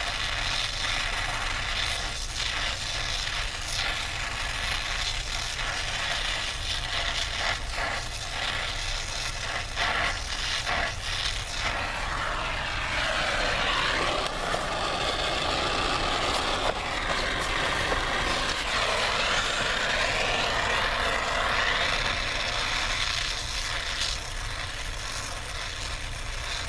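Brazing torch flame hissing while the copper refrigerant line joints are brazed, swelling louder through the middle stretch. Light scrapes and clicks come in the first half, over a steady low hum.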